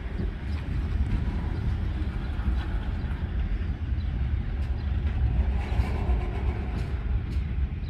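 Mixed freight train rolling past: a steady rumble of the train on the rails, with a few faint ticks.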